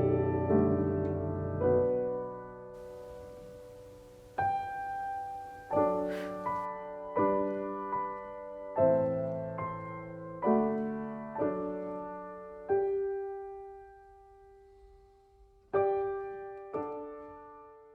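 Soft solo piano background music, single notes and chords played slowly, each ringing and dying away, fading out near the end.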